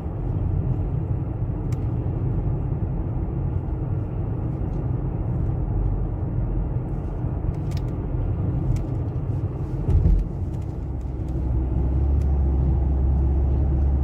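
Car driving, heard from inside: a steady low rumble of engine and road noise. About ten seconds in there is a brief thump, after which a steadier low drone sets in.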